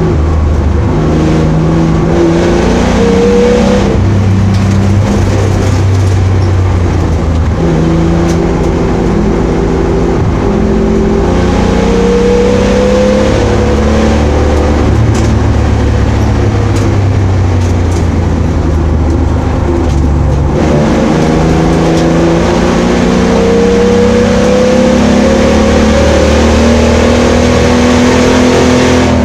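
Opel Commodore A's straight-six engine driven hard on track, its pitch climbing slowly through the revs several times and dropping back at each gear change or lift, over steady road and wind noise.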